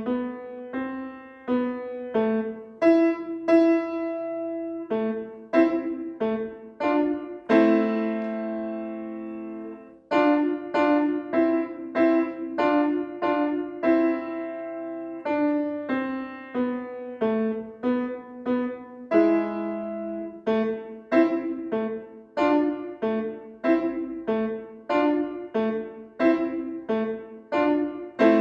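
Solo piano playing a slow piece of separate struck notes and chords, with a longer held chord about eight seconds in and another around twenty seconds.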